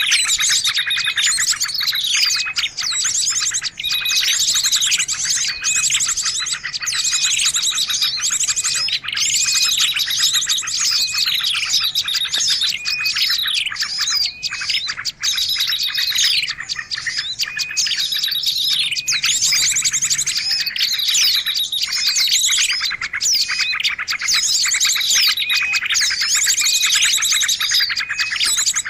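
Busy, unbroken chorus of many small songbirds calling at once, mixing fast high trills, repeated short whistled notes and chirps. This is a lure recording that combines small-bird calls to draw birds in.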